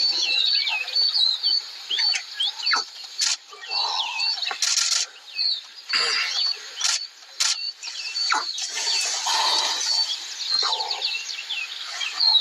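Birds chirping and twittering, many short high calls overlapping, broken by a few brief bursts of rustling noise.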